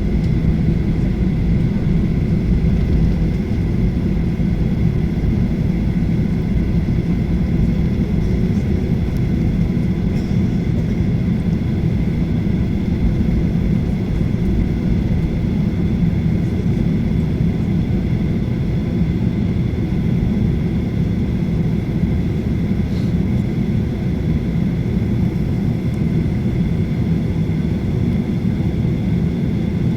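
Steady cabin noise inside a Boeing 737-800 with its CFM56 engines running: an even low rumble with a faint high steady whine over it.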